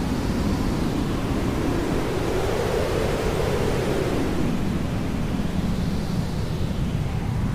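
Hair dryer running steadily as white noise: an even rushing hiss, with a slow whooshing sweep that rises and falls in pitch every few seconds.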